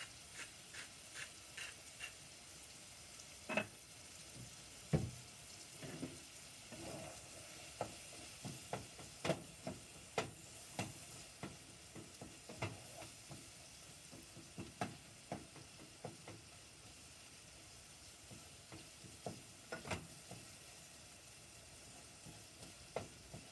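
Food sizzling as it fries in butter in a non-stick pot on a gas burner, with a spatula stirring it and scraping and tapping against the pot many times. A pepper mill clicks briefly as it grinds at the start.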